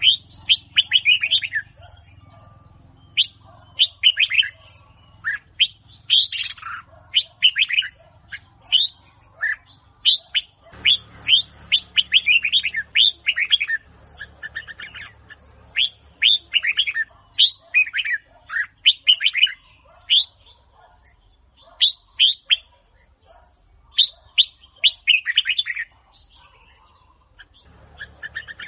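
Red-whiskered bulbul singing: quick phrases of bright, sharply sweeping chirps, repeated again and again with short pauses between them.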